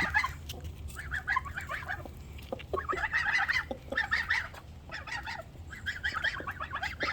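Young geese honking and chickens clucking in short, quick bouts of calls, a flock squabbling over feed, with a few sharp clicks among them.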